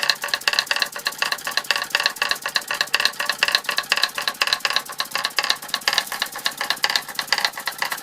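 Model Martinet steam hammers driven by a 1905 Fritz Neumeyer toy steam engine, the small hammers striking in a rapid, even clatter of many light metallic knocks a second.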